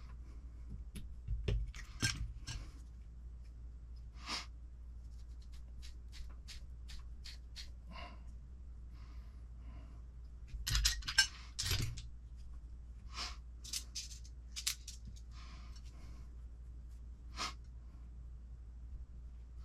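Small metal parts and hand tools being handled while assembling an RC car kit: scattered light clicks and taps, with two brief bursts of louder clatter about two seconds in and about eleven seconds in.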